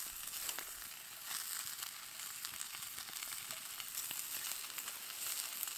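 Hedgehog mushrooms sizzling in a hot cast iron skillet over a campfire as they are dropped in by hand: a steady frying hiss with a few faint pops.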